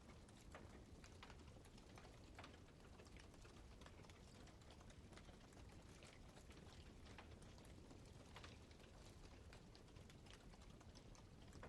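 Wood fire crackling faintly, with irregular sharp pops and snaps over a low steady rustle.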